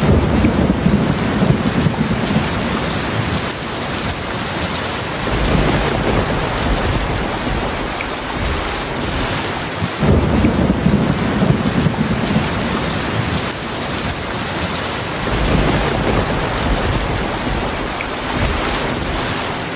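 Heavy rain falling steadily, with low rumbles of thunder rolling in and fading. The rumbles are strongest at the start and again about halfway through.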